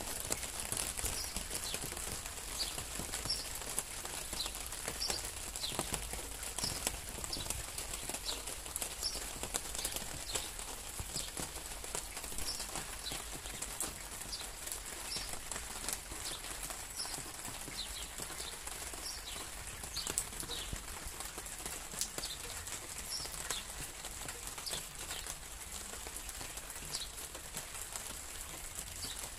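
Steady rain with many single drops tapping close by. A bird calls over it in short falling chirps, over and over, about once a second.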